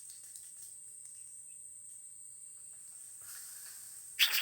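Steady high-pitched insect drone, one unbroken tone. Near the end it is cut across by two brief loud noisy bursts.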